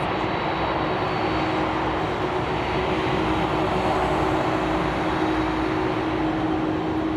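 Jet airliner engines running, a steady loud noise with a constant low hum and a high whine that fades out about a second and a half in.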